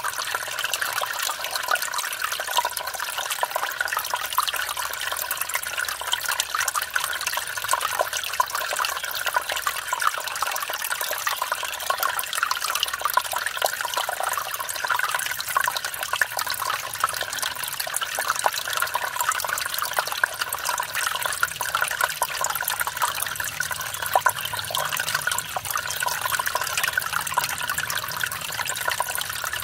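Mountain stream splashing and babbling over rocks at a small waterfall, a steady even rush of water with many small splashes.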